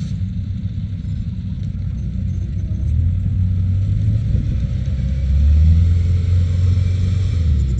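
Rice combine harvester's diesel engine running with a steady low rumble, growing louder about three seconds in as it works.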